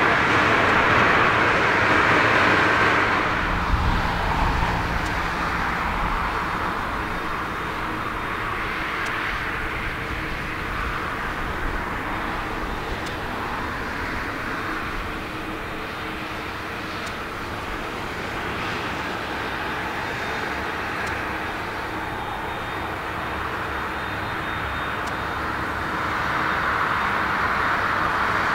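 Jet airliner engine noise on a landing approach, loud for the first few seconds, easing off, then building again near the end. A brief low rumble comes about four seconds in.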